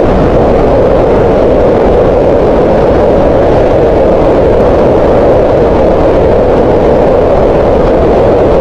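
Green noise: a loud, steady, synthetic noise with its energy centred in the mid range around 500 Hz, unchanging throughout.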